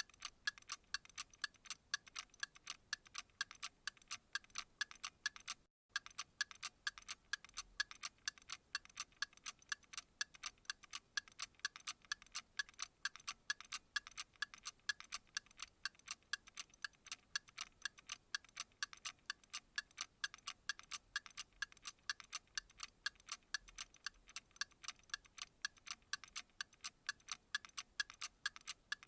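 Clock ticking in a fast, even, unbroken rhythm of sharp, bright ticks. The sound cuts out completely for an instant about six seconds in.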